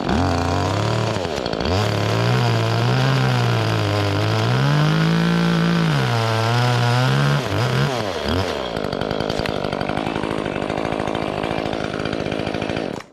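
Dewalt 60V 14-inch top-handle battery chainsaw running as it cuts into pine. Its motor pitch wavers up and down for the first eight seconds or so, then holds steadier, and it stops abruptly near the end.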